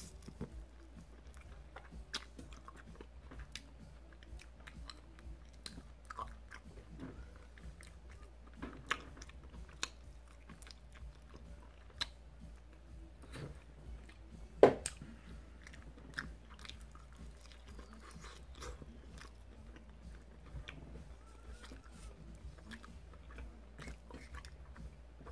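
Close-up eating of chicken wings: biting meat off the bone and chewing, with many small mouth clicks and one louder sharp click a bit past halfway.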